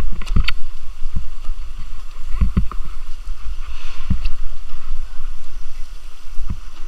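Stream water rushing over rocks, with a steady low rumble on the microphone and a few scattered thumps.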